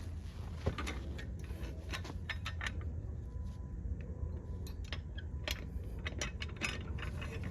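Irregular metallic clicks and clinks, a few per second, over a steady low hum, as of metal tools and parts being handled.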